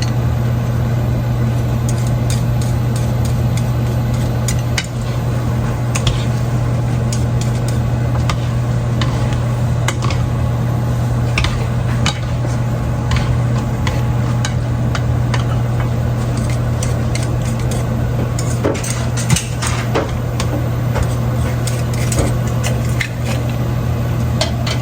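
Pot and utensil clinking and scraping again and again as pasta is stirred in a cream sauce, over a steady low hum from a kitchen appliance.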